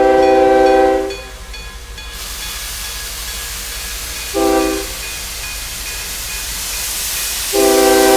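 A steam locomotive whistle blows three blasts, long, short, long, each several tones sounding at once. Under it a steady hiss of steam swells from about two seconds in.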